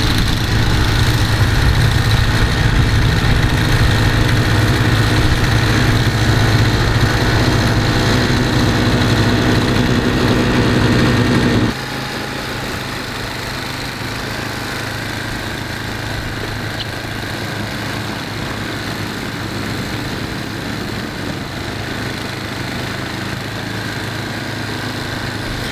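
Two-stage snowblower engine running steadily. About twelve seconds in, the sound drops suddenly and carries on at a lower level.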